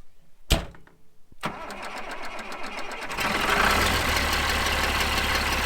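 Tractor engine being started in the cold: a sharp click, then the starter cranking it with a quick even beat for a couple of seconds until the engine catches about three seconds in and settles into a steady run. It is an ether-assisted cold start, after the loose starter wire terminals were tightened.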